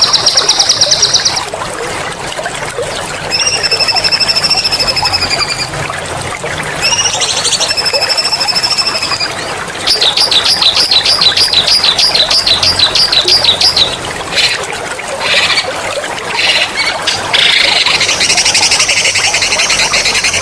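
Songbird singing a rolling song, as used for bird mastering: clear whistled phrases, then fast, sharp rattling trills and chirps. Trickling water runs steadily underneath.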